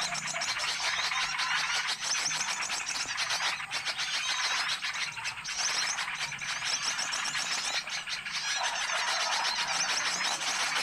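A dense chorus of many small birds chirping and twittering rapidly and without a break: a bird-lure call recording used to draw in wild small birds.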